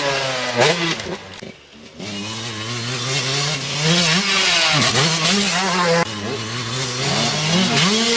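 Two-stroke motocross motorcycle engines revving up and down as the bikes ride the track, the pitch rising and falling with the throttle. The sound drops away briefly about a second and a half in, then builds again.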